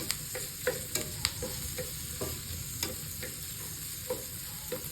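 Garlic, onion, ginger and chilies sautéing in oil over low heat with a steady sizzle, while a spatula stirs them, knocking and scraping the pan in irregular clicks.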